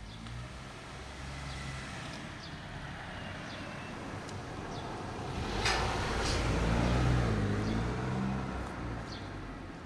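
A motor vehicle's engine running and passing by, growing louder to a peak about six to seven seconds in and then fading, with a sharp click just before the peak.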